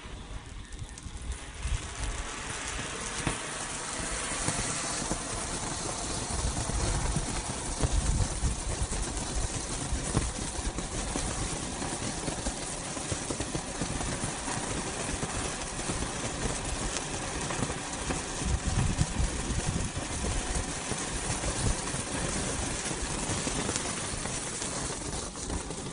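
Sky King Gold Feast fountain firework burning, a steady loud rushing hiss with fine crackling.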